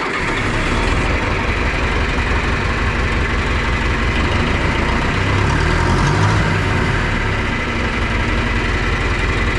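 John Deere 3010 tractor engine catching right at the start, then idling steadily as it warms up from cold.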